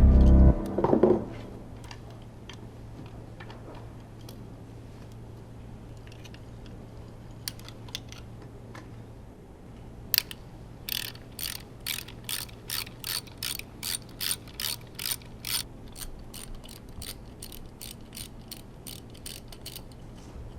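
Ratchet wrench being worked in short back-and-forth strokes, each stroke a quick run of clicks, about two strokes a second through the second half, over a steady low hum. Loud music cuts off about a second in.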